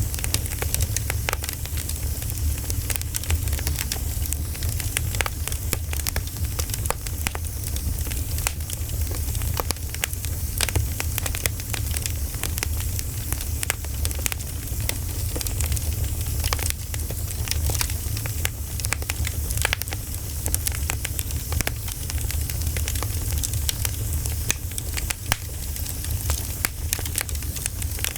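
Bonfire crackling steadily: a dense run of sharp pops and snaps from burning wood over a low, steady rumble.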